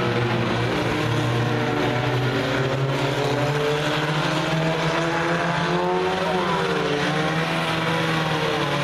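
Several race car engines running together at speed around the track, their pitches rising and falling as they lift and accelerate; one climbs and drops sharply about six seconds in.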